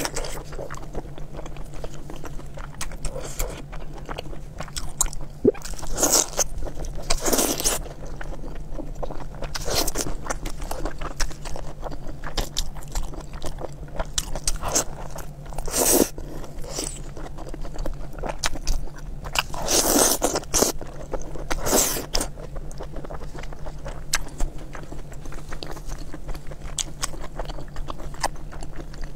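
Close-miked eating of braised pork intestines: continual biting and chewing, with several louder mouth sounds about a second long each, over a faint steady low hum.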